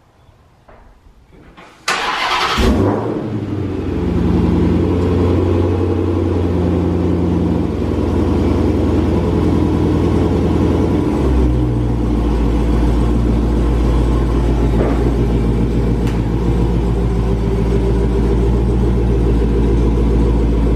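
Dodge Challenger Hellcat's supercharged 6.2-litre Hemi V8 starting about two seconds in with a short rev flare, then settling into a steady idle that deepens about eleven seconds in. This is the first start on fresh oil after an oil change.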